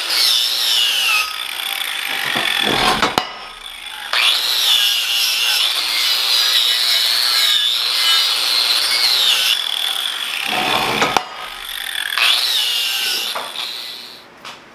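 Angle grinder grinding steel, its high motor whine sagging and recovering as it bears on the work, with two brief pauses.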